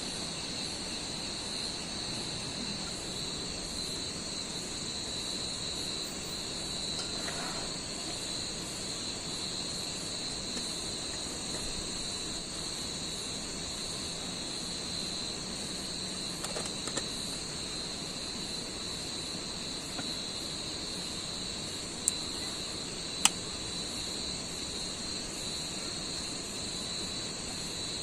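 Steady chorus of insects chirring without a break, with two sharp clicks about a second apart late on.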